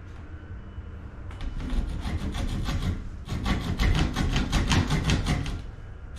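Hand saw cutting through a pressed-wood window trim board in quick, even back-and-forth strokes, starting about a second in, with a brief pause about three seconds in before a faster run of strokes.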